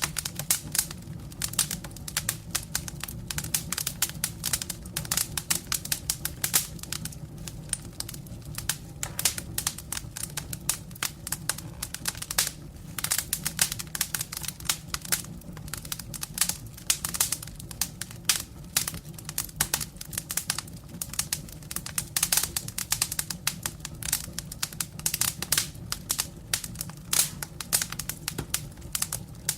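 Firewood burning in a fireplace, crackling with dense, irregular pops and snaps over a steady low rumble of the flames.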